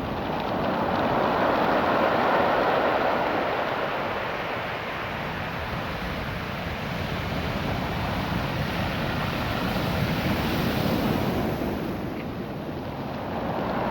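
Surf washing up and back over a beach of small, rounded cobbles, a dense rushing hiss that swells twice and ebbs between.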